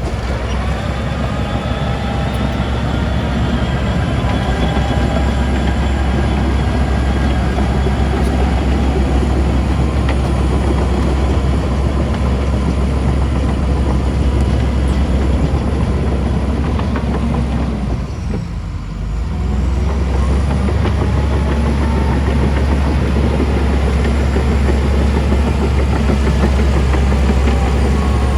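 Heavy diesel construction machinery running under load: a loud, steady, deep engine drone with faint higher whining tones over it. It dips briefly about two-thirds of the way through, then carries on.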